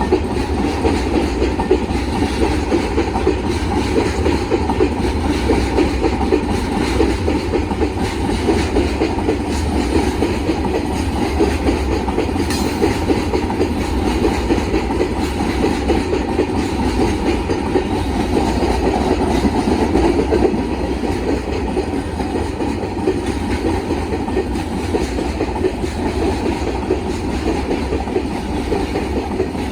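Freight train's wagons rolling steadily past, steel wheels rattling over the rails at constant speed.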